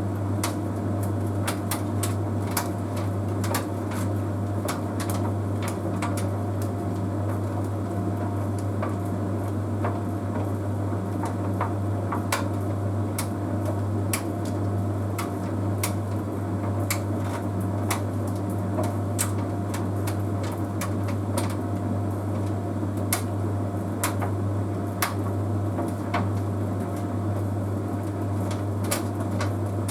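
Bosch Series 6 heat pump tumble dryer running, with a steady low hum from the machine and irregular light clicks and taps from the load tumbling in the drum.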